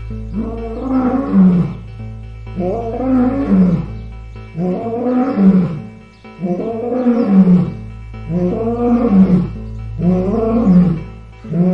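An animal calling over and over, about eight calls of roughly a second each at an even pace, over a steady low background drone.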